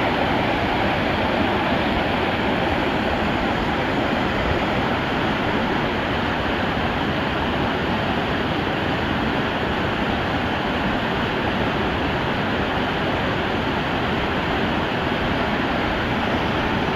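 Mountain stream water rushing steadily over rocks, an even unbroken roar of fast-flowing water.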